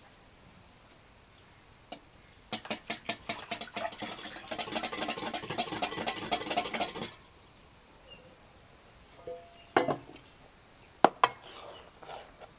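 A utensil beating rapidly against a ringing bowl. The strikes start a few to the second, speed up into a fast continuous rattle for about four seconds and stop suddenly. A few single clinks of cutlery on dishware come near the end.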